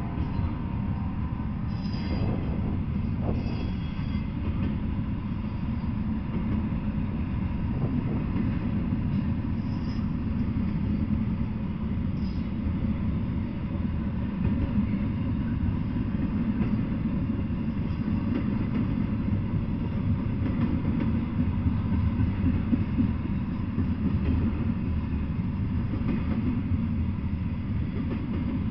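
Double-stack intermodal freight train rolling past: a steady, dense low rumble of steel wheels on rail, with a few brief high-pitched wheel squeals in the first half.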